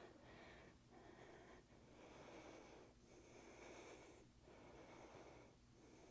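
Faint breathing of a yoga practitioner holding a high lunge, in soft repeated breaths against near silence.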